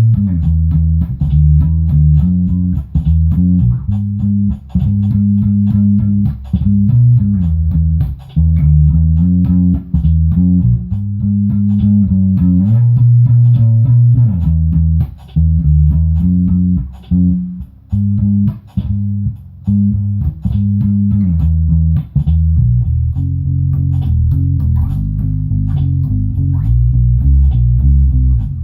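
Bass guitar jamming a line of low notes that step and change every second or so, with faint regular ticks of percussion over it.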